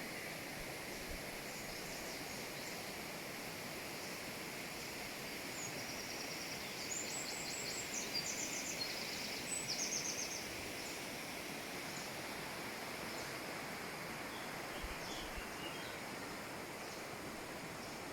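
Quiet outdoor ambience: a steady faint hiss, with a few short, high, rapid trills in the middle, from a small animal.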